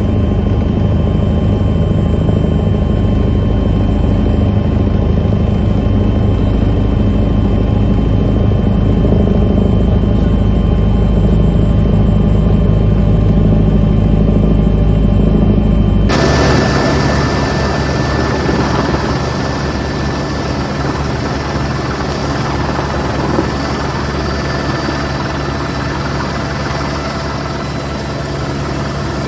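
Firefighting helicopter running overhead, a loud steady drone of rotor and engine. About halfway through, it cuts abruptly to a brighter, hissier steady noise.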